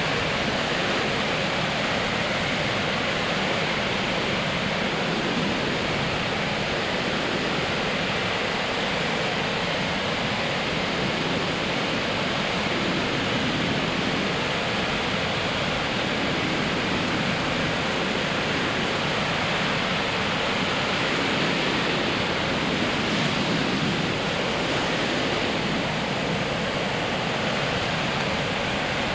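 Ocean surf breaking on a sandy beach, a steady continuous wash of waves.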